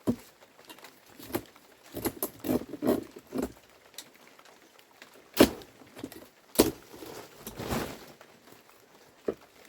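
Irregular knocks and clatter of objects being handled, with two louder knocks in the middle and a short swish near the end.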